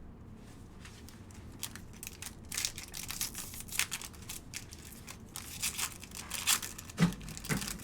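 A trading-card pack wrapper being torn open and crinkled by hand, a run of crackling rips and rustles.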